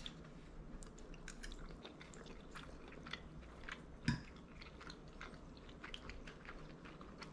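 A person chewing a mouthful of coconut- and almond-crusted fish fillet: faint, with many small clicks, and one louder knock about four seconds in.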